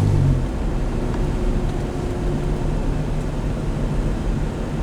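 Steady rumble of a vehicle's engine and road noise heard from inside the cab. A loud low hum stops about a third of a second in, leaving the rumble alone.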